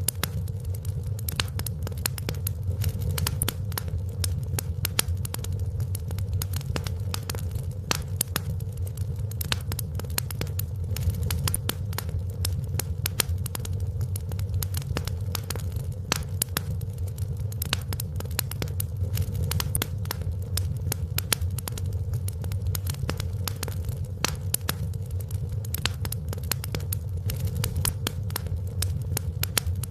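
Wood fire in a fireplace crackling steadily, with many irregular sharp pops and snaps over a constant low rumble.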